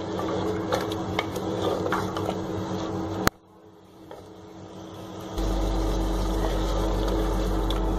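Chicken frying in oil in a clay handi, sizzling with spatula scrapes over a steady low hum. A sharp click about three seconds in cuts the sound off abruptly, and it comes back faint. A loud, steady, very low hum then sets in about five and a half seconds in.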